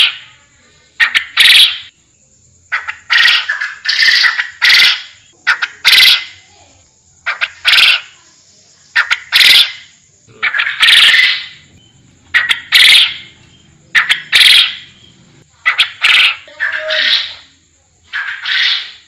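Puyuh hutan (forest quail) calling over and over: loud, short calls, singly or in quick pairs, every second or two.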